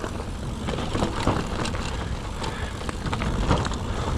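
Mountain bike rattling and clattering over rough, rocky limestone, with many irregular knocks over a steady low rumble.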